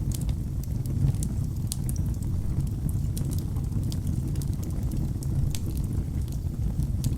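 Wood fire burning in a fireplace: a steady low roar of flames with frequent small, sharp crackles and pops from the burning logs.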